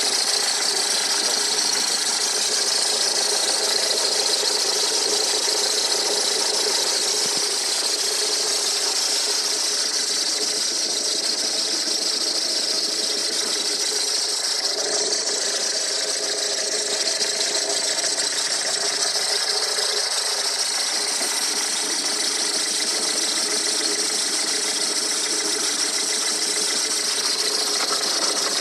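Peugeot 306 HDi diesel engine running steadily with a continuous high-pitched squeal, which the owner takes for the cambelt.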